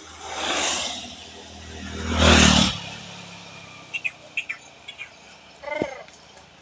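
Two vehicles pass close by on the road one after the other, each rising and fading, the second louder. A few short chirps follow, then a brief animal call near the end.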